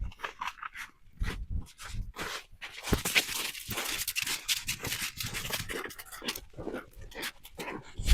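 Footsteps crunching in snow: a run of irregular short crunches, with a louder one about three seconds in and a sharp one at the end.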